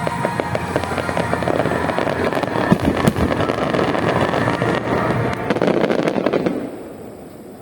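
Aerial fireworks bursting: a dense run of crackling pops with a few sharper bangs near the middle, falling away abruptly near the end.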